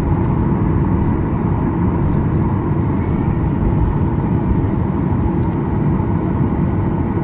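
Boeing 737-800 cabin noise: the steady, loud drone of the CFM56-7B jet engines and airflow, with a deep rumble and a faint steady hum.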